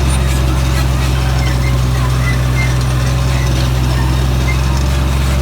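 International tractor engine running steadily at a constant low drone while pulling a row-crop cultivator through field corn.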